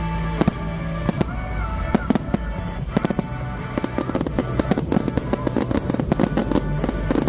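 Fireworks going off: a string of sharp bangs and crackles that comes thicker and faster in the second half, over background music.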